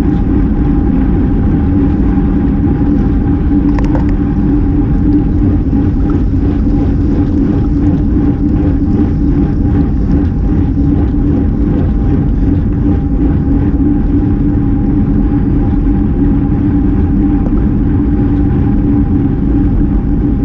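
Steady wind rush and road rumble picked up by a camera riding along on a racing bicycle at speed, with a constant low hum from the tyres on the pavement.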